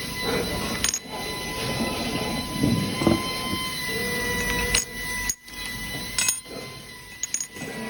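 CNC wire bending machine forming steel exhaust hanger rods: motors whining steadily while the machine clanks and knocks, with several abrupt breaks in the sound.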